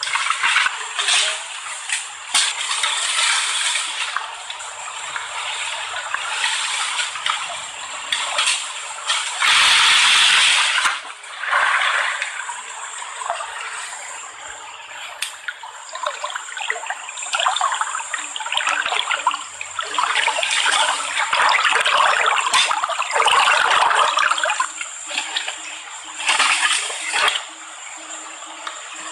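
Water splashing and sloshing in uneven bursts, loudest about ten seconds in and again from about twenty to twenty-four seconds.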